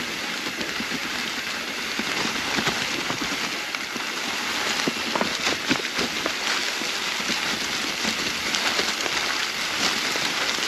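Mountain bike tyres rolling over a rocky trail covered in fall leaves: a steady crunching rustle of leaves with many sharp clicks and knocks from rocks and the bike, busier from about halfway through.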